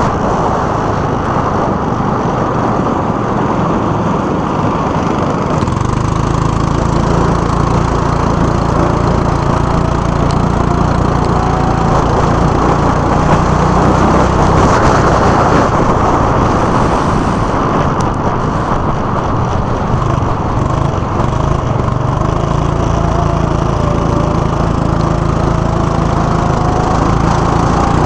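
Go-kart engines running steadily under throttle, with fainter engine whines rising in pitch twice as karts accelerate.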